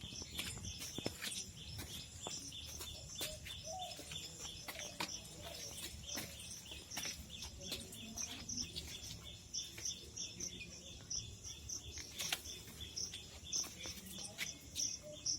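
Birds chirping: a steady run of short, high chirps repeating several times a second, with scattered sharp clicks.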